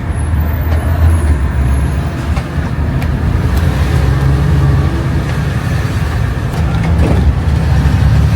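Steady low rumble of a minivan driving, heard from inside the cabin.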